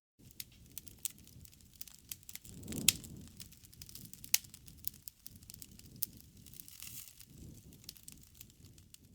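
Wood fire crackling, with many sharp pops and snaps scattered through it, the loudest about three seconds in, over a low soft rumble of the flames that swells and fades.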